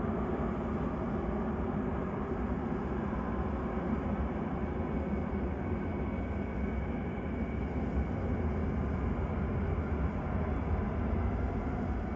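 Boeing 737-800's CFM56-7B jet engines running at low power, a steady rumble with hiss and a faint whine.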